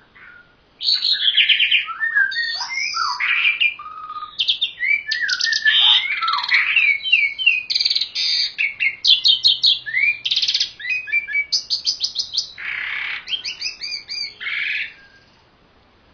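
A songbird singing a long, varied song of rapid trills, sweeping whistles and chattering notes. It starts about a second in and stops shortly before the end.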